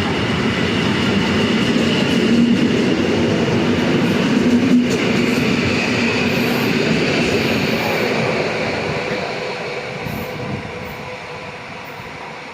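EN57 electric multiple unit running along the track, its noise steady at first and then fading away over the last few seconds.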